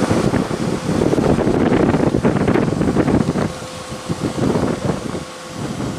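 Taiwan High Speed Rail 700T train running past at ground level, a loud rumble mixed with wind buffeting the microphone, easing off about halfway through. A steady hum sounds underneath throughout.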